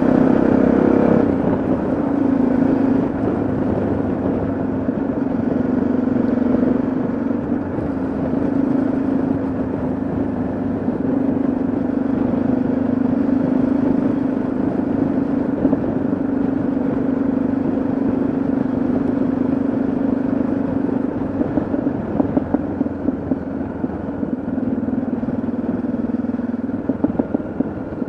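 Yamaha XT660Z Ténéré's single-cylinder engine running at a steady road speed under way, with wind and road noise; its pitch holds nearly level, sagging a little about two seconds in, and some uneven crackle comes in over the last several seconds.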